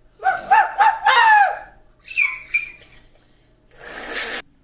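A young child making high-pitched playful vocal noises: a quick run of four or five "woo" yelps falling in pitch, then a couple of higher squeaks, and a short breathy hiss near the end.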